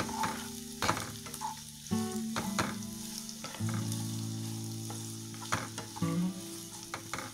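Sliced onions sizzling in hot oil in a black nonstick wok, stirred with a wooden spatula that scrapes and knocks against the pan several times.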